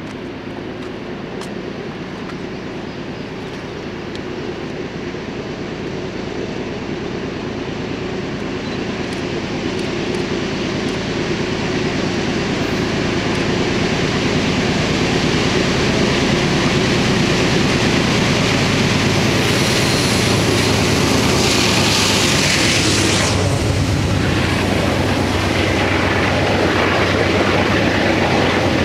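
GE C40-8W diesel locomotive at the head of a freight train approaching, its engine running with a steady hum that grows louder over the first half. The sound is brightest as the locomotive passes beneath, about two-thirds of the way in. Then the freight cars roll by.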